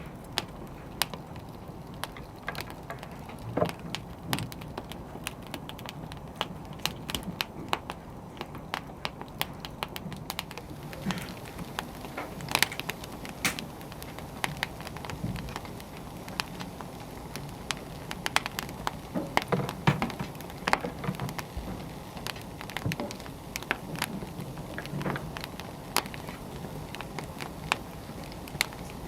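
Wood fire crackling and popping steadily, with irregular sharp snaps over a low, even hiss of burning logs.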